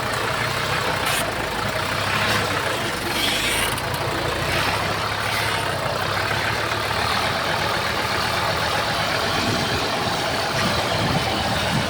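Heavy diesel engine of a bulldozer running steadily, with a coarse mechanical noise over it.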